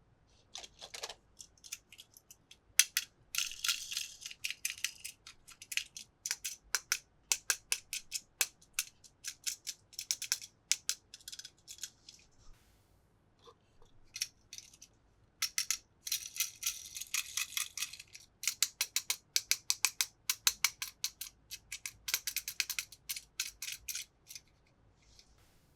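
Small hard toy pieces being handled, clicking and rattling in quick runs of sharp clicks with short pauses between.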